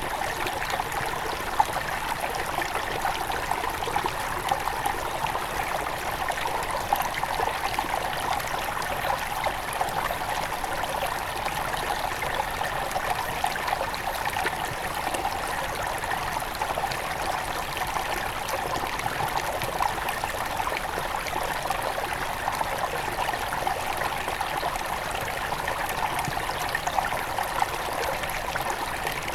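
Headwater river running over stones, a steady, even rush with trickling and small splashes, strongest in the mid range.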